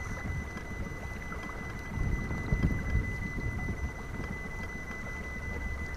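Wind buffeting the microphone: a rough low rumble that swells into a stronger gust about two seconds in, then settles back. A faint steady high whine runs underneath.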